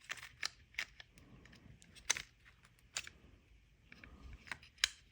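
Light, irregular clicks and taps of small plastic and metal parts being handled, with about half a dozen sharper clicks, as a small circuit board is worked loose from the bent metal tabs of an LCD panel frame.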